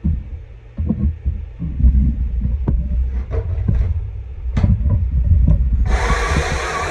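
Low thuds and rumble with a few sharp clicks and knocks of handling, then about six seconds in the Stihl MSA 200 C battery chainsaw's electric motor starts abruptly and runs with a steady whir.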